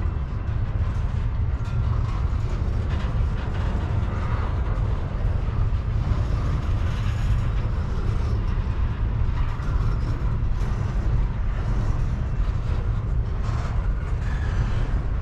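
Double-stack intermodal well cars of a freight train rolling past at speed: a steady, heavy rumble of steel wheels on the rails.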